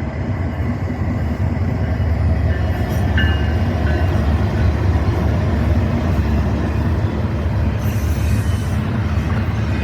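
BNSF intermodal freight train passing close by: a steady, heavy rumble of wheels on rail that builds over the first couple of seconds and then holds.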